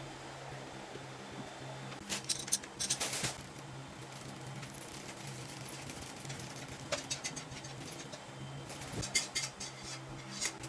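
Drum-kit parts and packaging being handled: three bouts of short rustling and scraping noises, about two seconds in, near the middle and near the end, over a steady low hum.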